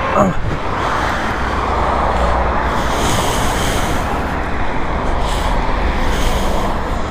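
Steady rushing road-traffic noise with a low rumble, swelling a little in the first few seconds as vehicles pass.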